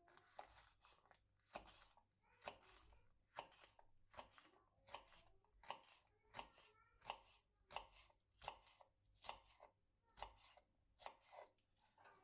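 Kitchen knife chopping food on a cutting board in a steady rhythm of sharp strokes, a little more than one a second.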